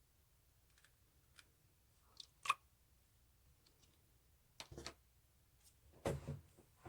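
Slime being handled: scattered small clicks and sticky pops, the loudest about two and a half seconds in, a short cluster near five seconds and a longer squish about six seconds in.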